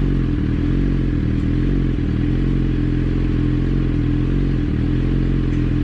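Motorcycle engine running steadily at a constant low speed, with a fast, even pulse and no rise or fall in pitch.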